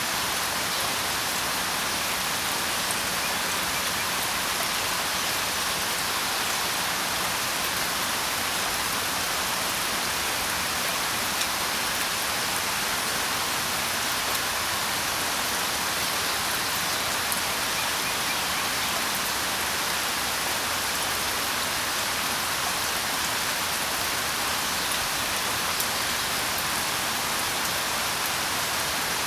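Steady rain falling: an even hiss with a few separate drops ticking now and then.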